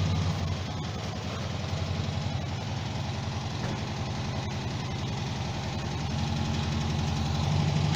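Air-cooled Volkswagen flat-four engine running at low revs, with a steady, even beat, growing a little louder near the end.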